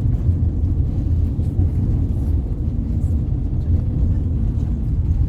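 Steady low rumble of a coach driving along a road, heard from inside its cabin.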